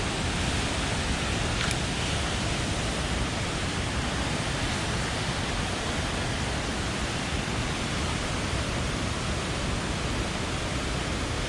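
Mountain stream rushing steadily, with one faint click about two seconds in.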